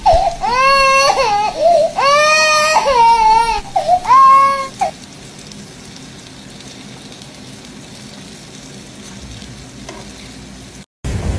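A cat meowing in several long, wavering, high-pitched cries that stop about five seconds in. After that, a frying pan on a gas hob sizzles quietly and steadily.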